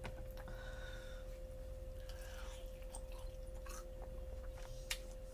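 A person chewing food on a close microphone, with scattered short wet mouth clicks and smacks over a faint steady hum.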